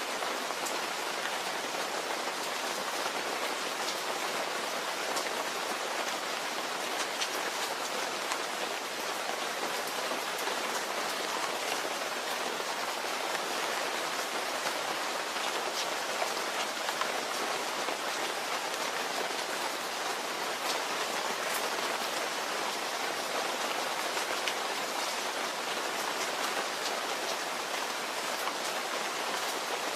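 Steady rain falling, an even hiss of rain with many separate drops ticking on a surface.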